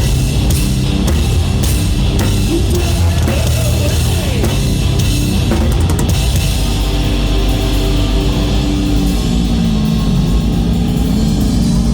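Live rock band playing a loud song: drum kit driving it along with electric guitars and bass.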